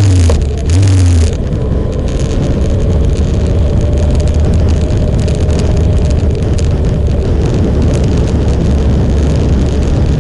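Motorcycle engine revving in the first second or so, briefly dropping about half a second in and revving again, then running steadily at an even speed.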